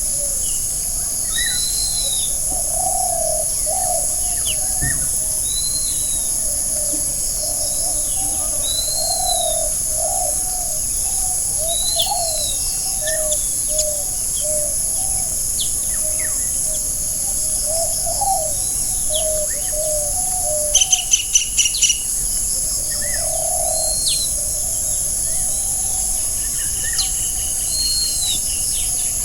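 Forest birdsong: one bird repeats a short arched chirp every second or two over a string of lower calls, against a steady high hiss. About two-thirds of the way through, a bird gives a quick, loud run of about six sharp notes.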